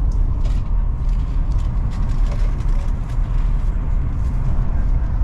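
Steady low rumble of a Chinese high-speed train running at speed, heard inside the passenger cabin.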